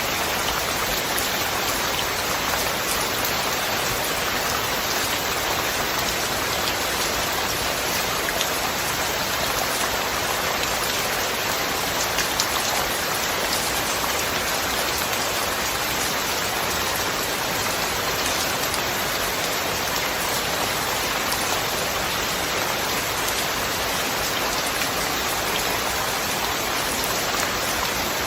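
Steady rain falling, an even hiss with scattered drop taps and a couple of slightly louder ones about twelve seconds in.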